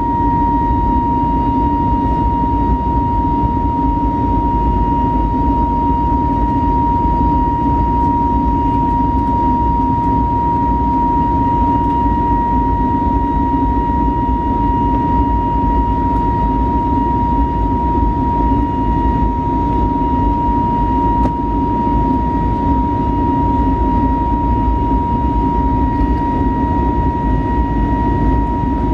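Airbus A320neo jet engines heard from inside the cabin: a steady high whine over a constant low rumble, with no change in thrust.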